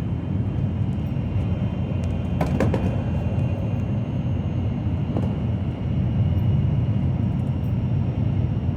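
Moving train running with a steady low rumble, with a few faint clicks about two and a half seconds and five seconds in.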